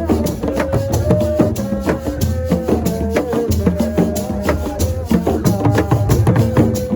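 Senegalese assiko music: fast, dense percussion of rattles and drums, with held melodic notes over it.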